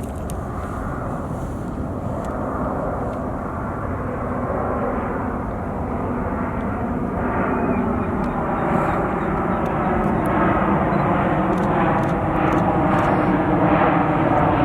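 Jet airliner's engines, a steady rushing roar that grows louder as the aircraft comes closer, taking on a sweeping, wavering tone in the second half.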